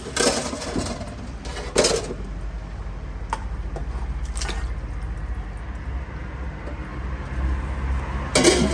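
A few sharp clinks and clatters of metal cookware and utensils, the loudest cluster near the end, over a steady low rumble.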